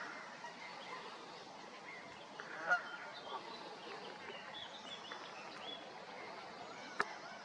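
Canada geese calling, with one louder honk about two and a half seconds in and fainter high calls after it, over a steady background noise. A sharp click near the end.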